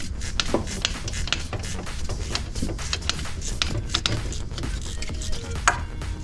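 Irregular clinking, knocking and scraping of metal tools and parts being handled, with a steady low hum of background music underneath.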